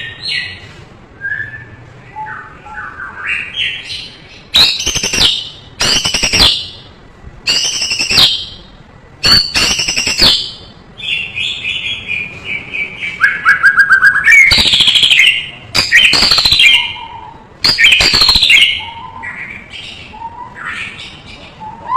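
White-rumped shama (murai batu) singing a long, varied song: clear whistled notes and glides with harsh, rasping notes repeated about every second and a half through the middle of the song, then softer whistles near the end.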